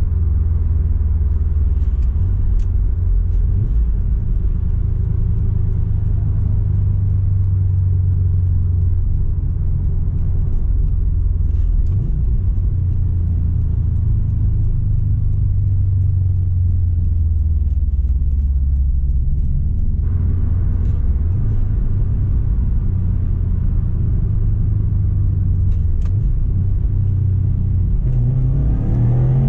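Turbocharged flat-four boxer engine of a tuned 2008 Subaru Impreza STI with a Milltek exhaust, giving a steady low rumble at light load. Near the end the revs climb quickly as the car accelerates.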